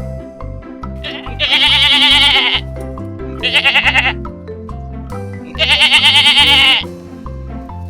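Goat bleating three times, each call long and quavering, the first and last about a second long and the middle one shorter, over background music.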